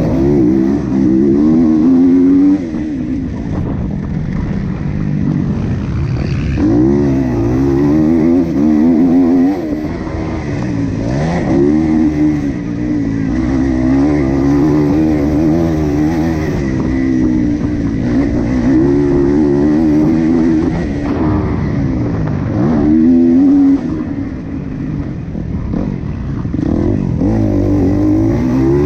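Motocross bike engine racing on a dirt track, revving up and falling back over and over as the throttle opens and closes through corners and jumps, its pitch rising and dropping every couple of seconds.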